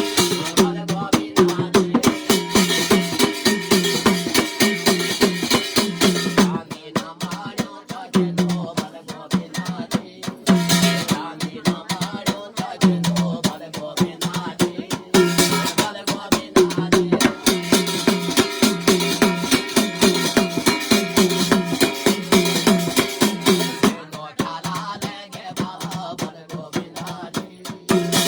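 Garhwali jagar devotional folk music: drums beating a fast, steady rhythm under pitched accompaniment, growing fuller and brighter for a few seconds near the start and again through the middle.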